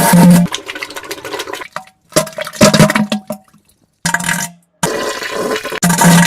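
A string of wet, spluttering diarrhea and fart sound effects: about four bursts, each cut off abruptly, with short silent gaps between them.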